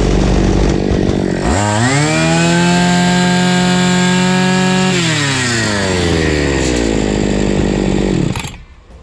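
Fubag FPT 52 two-stroke petrol brush cutter engine idling, revved sharply to high speed about a second and a half in, held there for a few seconds, then falling slowly back to idle and cutting off near the end. It runs cleanly after flooding, with the carburettor's fuel screw opened and the idle reset.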